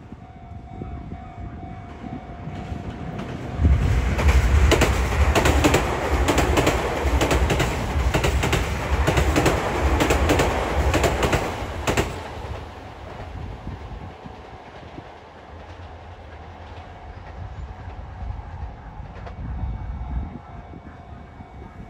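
Sotetsu electric commuter train passing at speed, its wheels clicking rapidly over the rail joints. It grows loud a few seconds in, stays loud for about eight seconds, then fades away.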